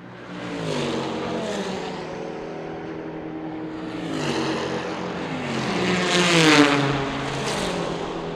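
Several race cars passing one after another at high revs, each engine note rising in loudness and then dropping in pitch as the car goes by. The loudest pass comes about six and a half seconds in.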